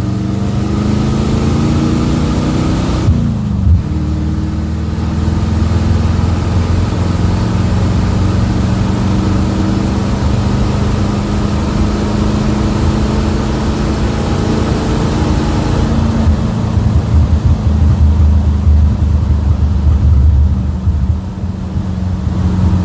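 1967 Chevrolet Bel Air's Chevy 350 V8 running through its newly installed full exhaust: the revs fall back near the start and again about three seconds in, then it idles steadily, a little louder for a few seconds near the end.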